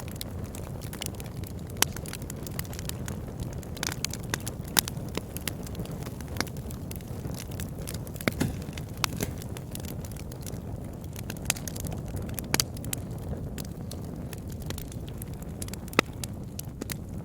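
Wood fire burning in a fireplace: a steady low rush of flames with irregular sharp crackles and pops from the logs, a few standing out louder.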